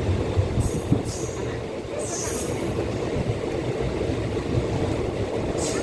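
Passenger train running on the rails: a steady low rumble, with short high-pitched squeals a few times, about half a second, one second and two seconds in and again near the end.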